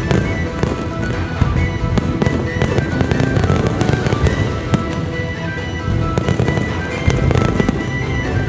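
Fireworks going off in a rapid, continuous series of bangs and crackles, mixed with music that carries a held melody.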